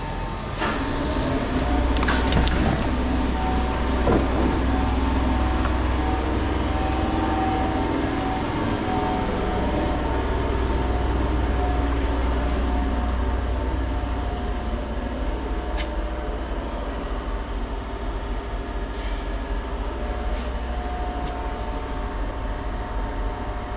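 Interior of a Class 465 Networker electric multiple unit under way: a steady low rumble with a whine from the traction equipment, and a few knocks in the first few seconds.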